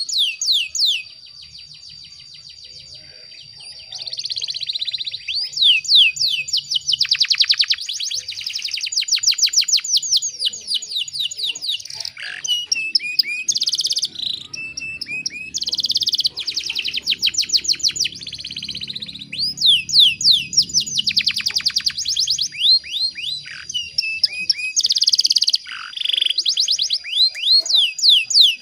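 Domestic canary singing: long, fast trills and rolls of rapidly repeated sweeping notes, broken by short pauses, with a quieter stretch about a second in.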